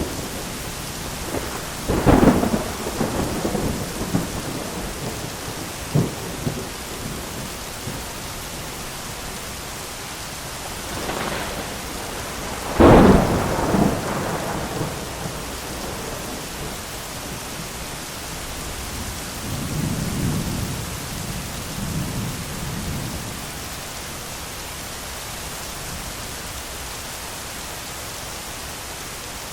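Steady heavy rain with thunder: two sharp, loud thunderclaps about 2 seconds and 13 seconds in, each followed by rumbling, a smaller crack about 6 seconds in, and softer rolling thunder around 20 seconds in.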